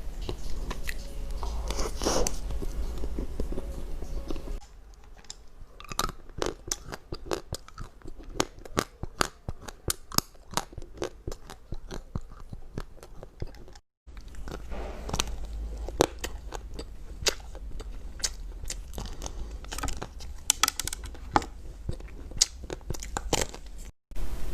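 A person biting and chewing crunchy food: a dense, irregular run of sharp crunches.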